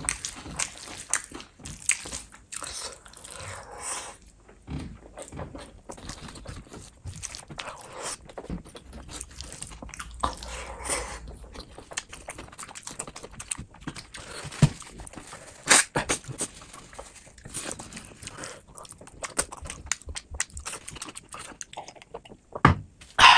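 Close-up eating sounds: wet chewing and lip smacks as gravy-soaked rice is eaten by hand, with the fingers squishing and scraping rice together on a wooden board. A few sharper clicks stand out.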